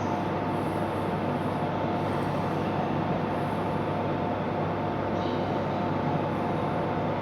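E1 series Max double-decker Shinkansen train at a station platform, a steady mechanical running noise with two faint steady whining tones.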